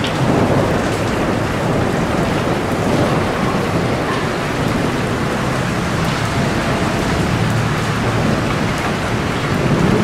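Heavy rain pouring steadily: a dense, even hiss of falling drops with a low rumble underneath.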